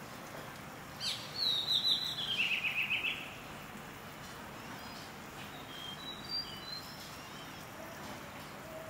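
A small songbird sings a fast run of notes that steps down in pitch, lasting about two seconds. A few faint chirps follow a few seconds later, over steady outdoor background noise.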